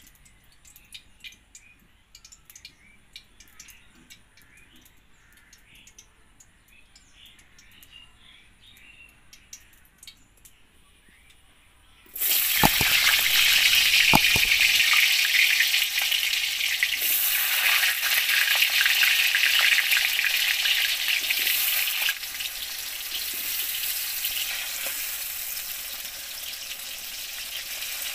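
Faint ticks at first, then about twelve seconds in a sudden loud sizzle as potato cubes go into hot oil in a wok. The frying sizzle carries on as they are stirred, easing a little about two-thirds of the way through.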